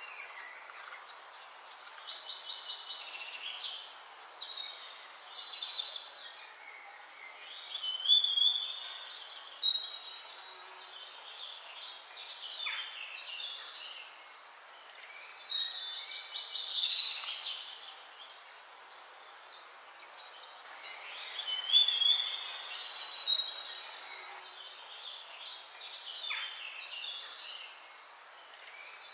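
Songbirds singing: bursts of high chirps and trills recur every five to seven seconds, the loudest around a third, halfway and three quarters of the way through, over a steady background hiss.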